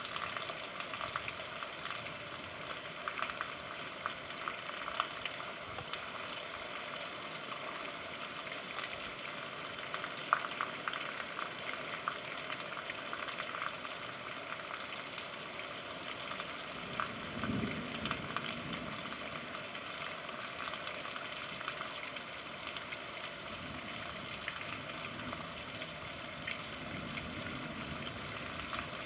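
Steady rain falling, a dense even crackle of drops, with a brief low rumble about 17 seconds in.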